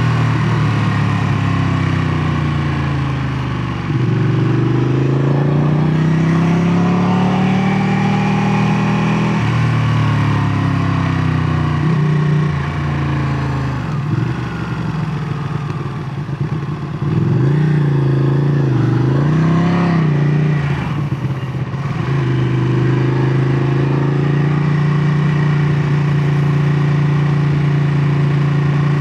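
2017 Ducati Panigale 959's L-twin engine on its stock exhaust, idling and then revved. The revs climb for about five seconds and fall away, a few quick throttle blips follow, and it settles back to a steady idle for the last several seconds.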